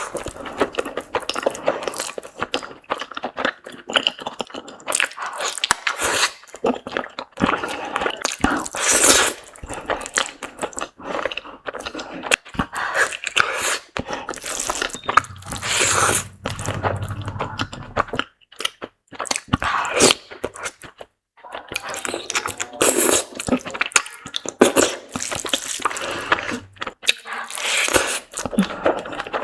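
Close-miked eating sounds from a seafood mukbang: chewing, biting and crunching, with wet mouth sounds, as quick irregular clicks and crackles.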